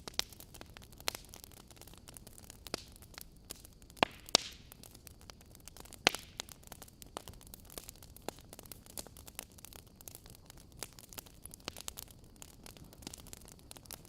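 Wood fire crackling in a fireplace: irregular sharp pops and snaps over a low hiss, with a few louder pops about four and six seconds in.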